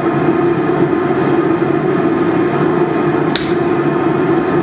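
Steady roar of a blacksmith's forge, with one sharp hammer strike on metal about three and a half seconds in.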